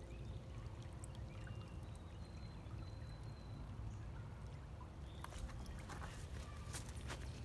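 A small stream trickling and running steadily, with a few faint bird chirps. Scattered crunching steps begin near the end.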